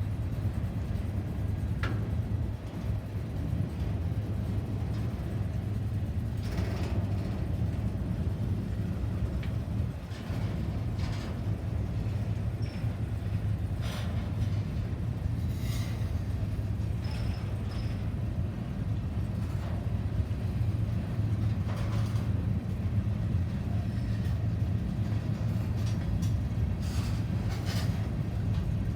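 A train rolling by on the rails: a steady low rumble, with scattered clicks and a few brief high squeaks from the wheels and cars.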